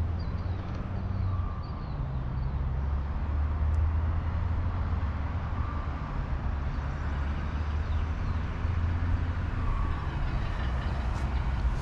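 A vehicle engine idling steadily nearby, a low, even rumble.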